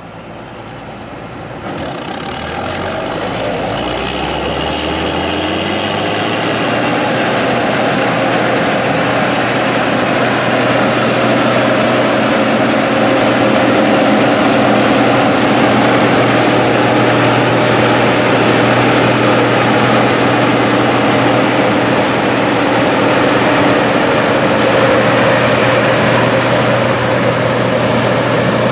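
Deutz-Allis Gleaner R60 combine, repowered with an 8.3-litre Cummins diesel, running as it harvests wheat: a steady machine din with a constant low engine tone, growing louder over the first several seconds and then holding steady.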